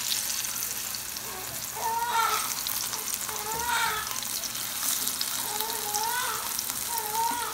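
Sliced plantains frying in hot oil in a pan, with a steady sizzle. Over it, a short, high-pitched rising-and-falling tone comes back about once a second.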